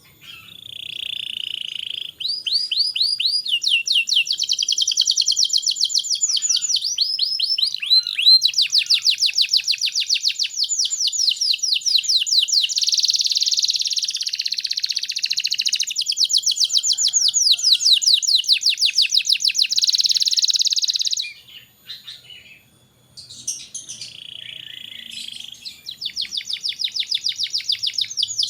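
Domestic canary singing a long song of rapid trills and rolls, one fast-repeated phrase running into the next. The song breaks off for a couple of seconds about three-quarters of the way through, then starts again.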